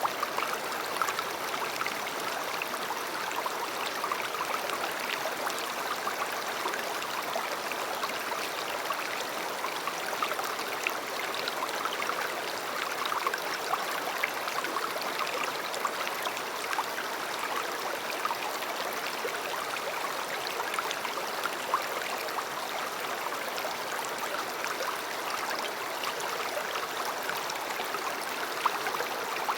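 River water flowing steadily over stones, a continuous rushing babble with small splashes and gurgles.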